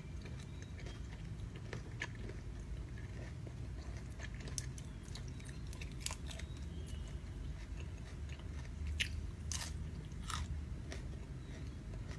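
A person chewing and biting into raw shrimp dressed with seafood dipping sauce, with scattered wet clicks and smacks of the mouth over a low steady hum.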